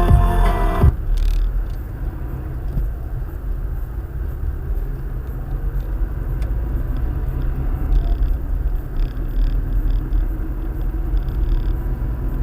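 Steady low rumble of a car driving, road and engine noise as picked up by a dashcam inside the car. Music cuts off about a second in.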